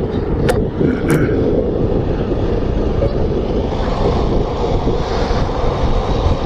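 Motorcycle riding along a road: engine and wind rushing over the microphone blend into a steady, loud rumble, with two sharp clicks about half a second and a second in.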